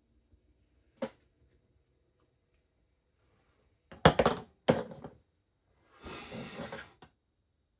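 Parts and tools being handled on a workbench. There is a small click about a second in, two loud clattering knocks a little over half a second apart around the middle, then about a second of scraping or rustling that ends in a light knock.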